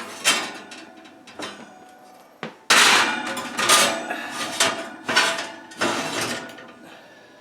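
Metal clanking: a cast iron pan knocking against metal in a run of sharp, ringing knocks, the loudest about three seconds in.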